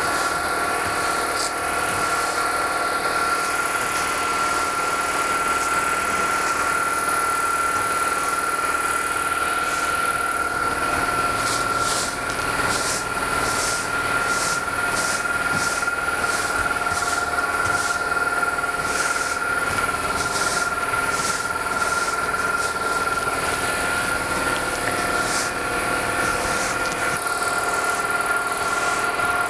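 A motor running steadily with a constant high whine, over a noisy rush and scattered faint high ticks.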